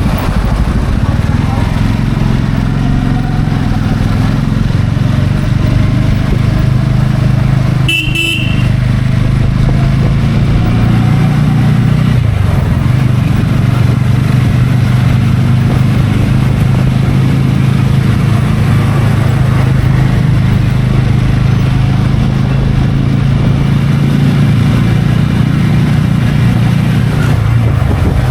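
TVS Ronin's single-cylinder engine running steadily under way, with wind noise on the helmet microphone. A short horn beep sounds about eight seconds in.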